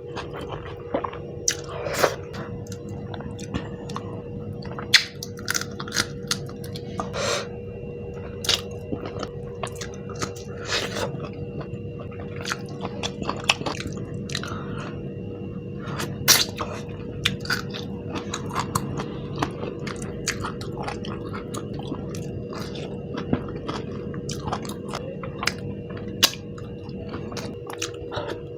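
Close-miked chewing and biting of food, with many sharp, irregular wet mouth clicks. A steady faint hum runs underneath.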